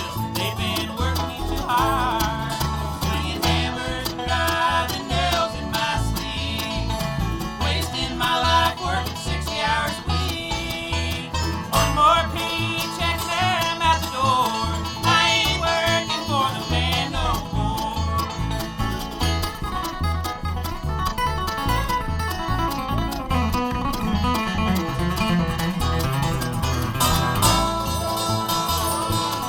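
Live bluegrass band playing a song with plucked string instruments over a steady, regular bass beat.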